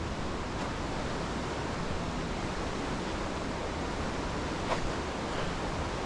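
Steady rush of falling water from the river's falls and rapids, an even hiss without rhythm. A single small click about three-quarters of the way through.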